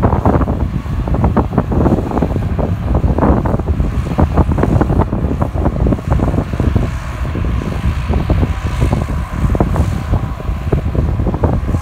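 Tractor diesel engine running, with wind buffeting the microphone. A thin, steady whistle joins in about seven seconds in.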